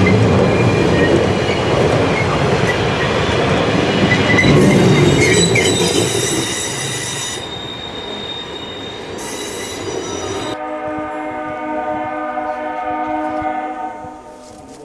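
A steam train running past with rumbling and thin wheel squeal on the rails, fading away. About ten seconds in, the sound changes suddenly to a steam whistle blowing one long, steady note.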